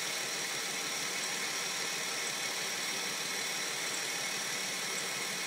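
Dodge Intrepid's 2.7-litre V6 idling steadily, heard close over the open engine bay.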